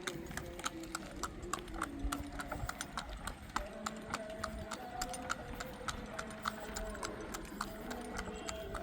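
Footsteps on a hard rural road: a continuous run of sharp, irregular clicks and taps, several a second, with faint wavering tones beneath.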